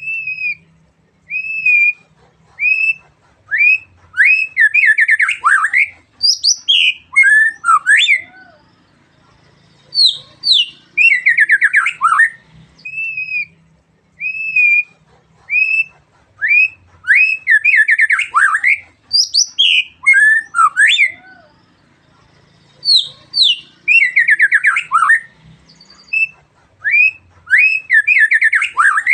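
A murai batu (white-rumped shama) singing loudly in repeated phrases: clear whistled notes that build into fast trills and sweeping, harsh notes, with short pauses between phrases.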